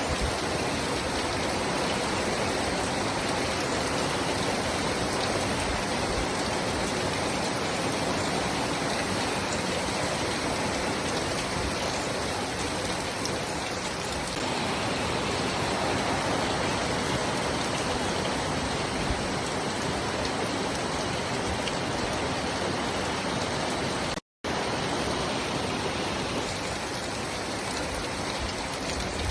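Steady rain falling, an even dense hiss of drops with no let-up. It drops out completely for a fraction of a second about three-quarters of the way through.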